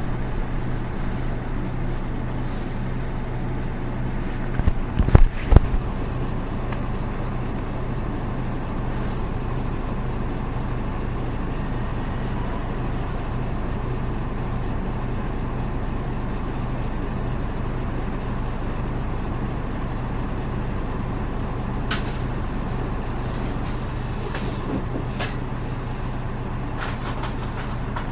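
Diesel engine of a PKG-RA274MAN city bus running steadily, heard from inside the cabin with a constant low hum. Its engine note differs from others of the same type. A cluster of loud knocks comes about five seconds in, and a few light ticks near the end.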